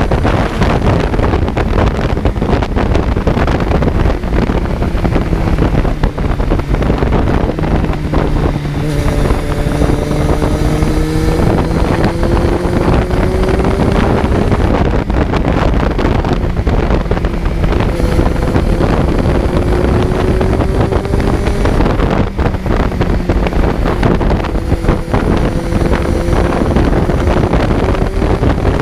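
Kawasaki Z900's inline-four engine heard from on board the moving motorcycle, climbing in pitch in several long pulls with a drop between each, under loud wind rush.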